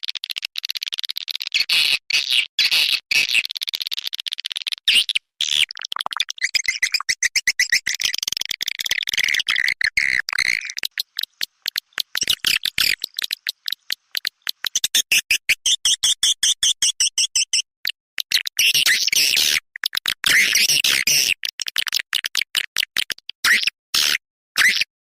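Recorded swiftlet calls used as a lure sound to draw swiftlets into a nest house: dense, high twittering chirps chopped into rapid clicking stutters with brief gaps.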